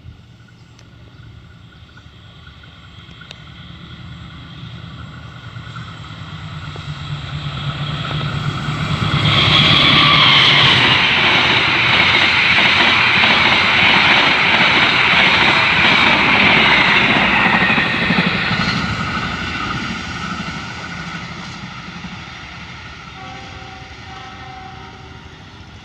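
Diesel locomotive-hauled train passing by: the engine hum grows as it approaches, then a loud rush of wheel and rail noise for about nine seconds, fading as the train moves away.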